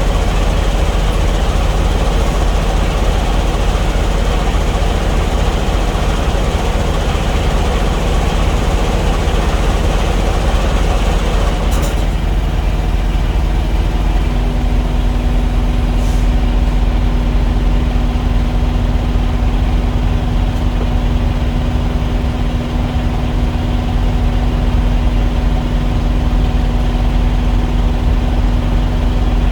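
Semi truck's diesel engine idling, loud and steady. About twelve seconds in the hiss above the engine drops away, and a couple of seconds later the engine settles into a different steady hum.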